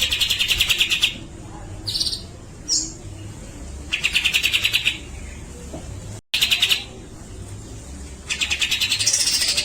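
Cucak jenggot (grey-cheeked bulbul) singing in fast rattling bursts about a second long, each a rapid string of harsh notes, with a couple of short single calls between them. This is the rattling 'besetan' song that bird keepers prize.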